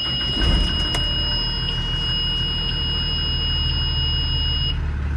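2010 Blue Bird Vision school bus engine idling just after a cold start, with a brief rise in level about half a second in. A steady high-pitched electronic tone sounds over it and cuts off near the end.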